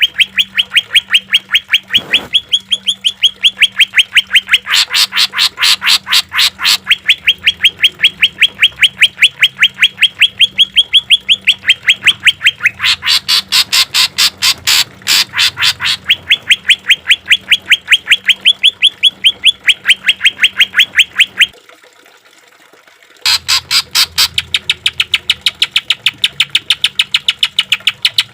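A cucak ijo (green leafbird) sings a long, rapid run of repeated harsh notes, about five or six a second: the fast 'tembakan' shooting phrase. The song swells into louder, fuller stretches several times. It breaks off for under two seconds near the end, then resumes. A faint steady hum lies underneath.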